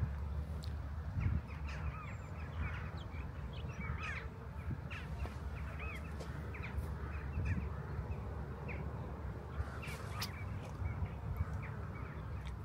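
Birds calling repeatedly: many short, arched calls overlapping one another, over a low steady rumble.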